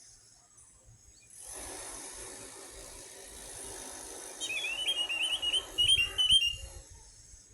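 Orange-headed thrush (anis merah) singing a quick run of short, chirping notes over a steady hiss, starting about halfway through. A few low thumps come near the end of the run.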